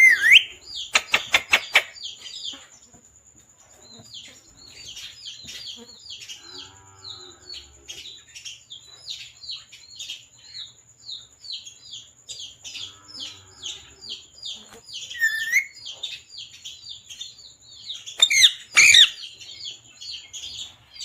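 Parrot chirping: a long run of short, quick high chirps, with louder calls near the start and again about eighteen seconds in.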